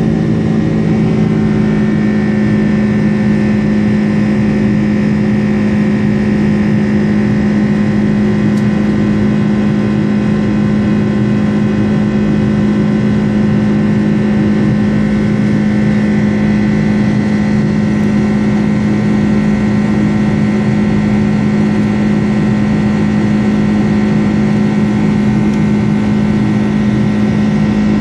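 Boeing 747-400 engines heard from inside the passenger cabin: a loud, steady drone with a strong low hum and several steady higher tones.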